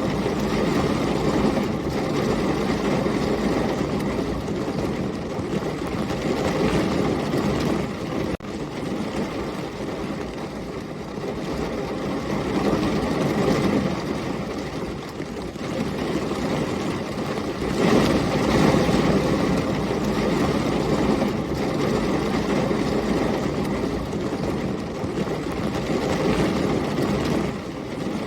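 Heavy rain with storm wind, the low rumble swelling and easing several times, loudest about eighteen seconds in. The sound cuts out for an instant about eight seconds in.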